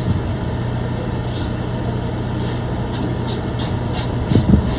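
Steady low engine hum, with a few louder thumps near the end.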